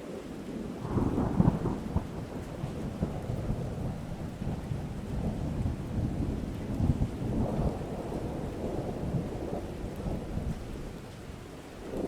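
Thunderstorm: steady rain with low rolling thunder, swelling louder about a second in and again around seven seconds in.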